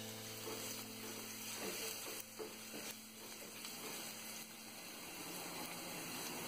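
Chopped ginger, garlic and cumin seeds sizzling softly in hot coconut oil in an enamel pot, stirred with a silicone spatula that scrapes a few times in the first seconds.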